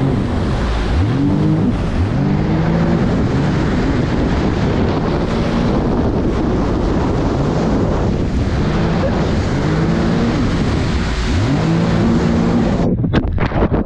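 Jet ski engine revving up and easing off again and again, its pitch rising and falling every second or two, under heavy wind and water-spray noise on the microphone. Near the end the engine sound drops away and a few sharp knocks follow.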